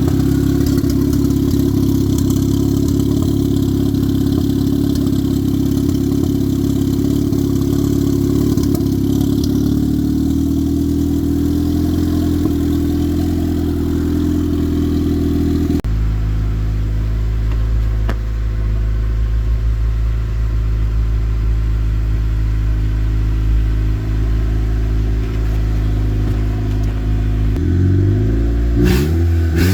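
Turbocharged Honda Civic engine idling steadily. The idle note changes abruptly about halfway through, and near the end the engine is revved up and back down a couple of times.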